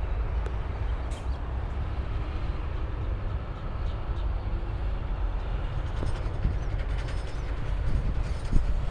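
Steady rumble and tyre noise of highway traffic, with heavy trucks in the flow.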